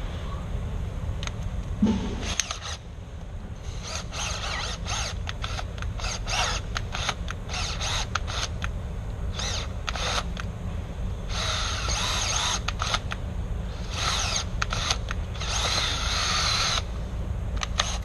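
Tool work on a metal door for a deadbolt installation: a run of sharp clicks and clatter with short rasping, drill-like bursts, the longest about a second each in the last third, over a steady low hum.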